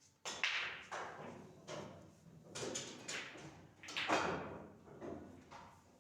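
Pool balls knocking on the table: about nine sharp clacks at uneven intervals, each with a short fading tail.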